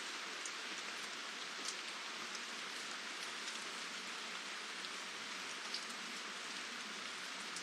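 Steady rain falling: an even hiss, with scattered sharp ticks from single drops striking close by.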